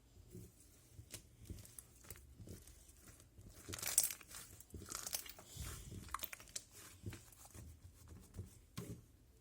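Handmade slime being played with by hand: irregular sticky clicks and crackles, loudest in a burst about four seconds in.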